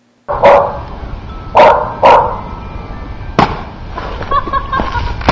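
A dog barking: three short barks within the first two seconds or so, then a single sharp click about three and a half seconds in.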